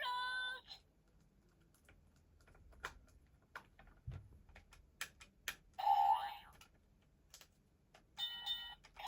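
Clicks and taps of a plastic toy train being handled, with short electronic tones and jingles from its sound chip at the start and again near the end.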